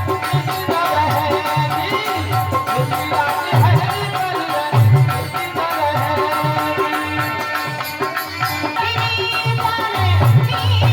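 Indian folk music: a hand drum beating a steady, repeating rhythm under a wavering melody line.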